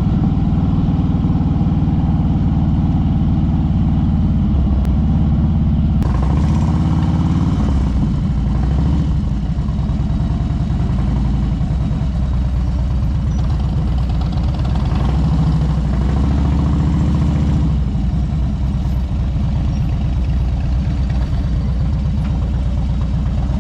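Harley-Davidson touring motorcycle's V-twin engine running steadily at low revs, the pitch rising and falling a little a couple of times with the throttle.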